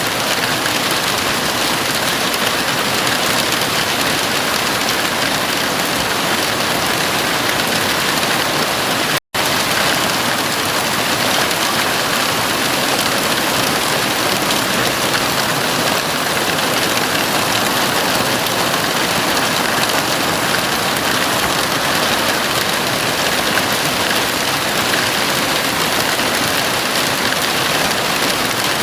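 Heavy rain falling on a house roof: a steady, dense hiss of drumming drops. It cuts out for an instant about nine seconds in.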